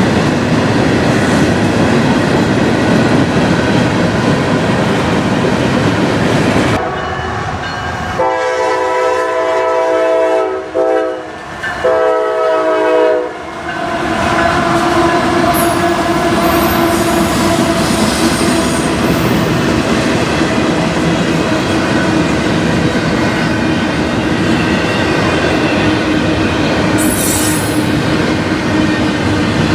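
A train rolling past with a steady rumble and clatter of wheels on rail. About seven seconds in, the locomotive's air horn sounds two long blasts with a short break between them; the second ends near thirteen and a half seconds.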